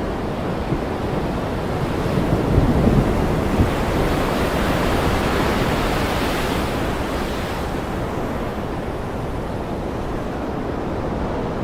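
Ocean surf washing in a steady rush that swells about two seconds in and eases off over the second half.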